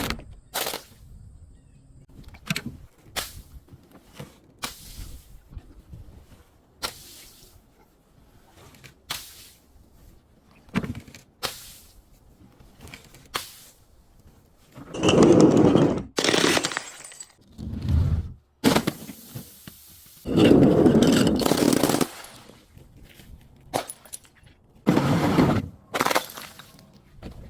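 Brittle things breaking and being crushed: a string of sharp single cracks and snaps, then two longer, loud crunching stretches about halfway through and a few seconds later, and shorter crunches near the end.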